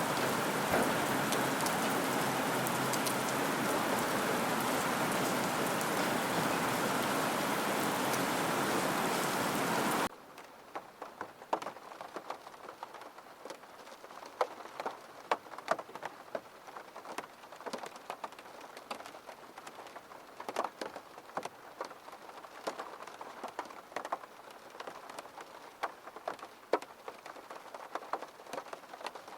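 Rain: a steady, dense hiss of heavy rain that cuts off abruptly about ten seconds in, giving way to much quieter, sparser rain with individual drops tapping.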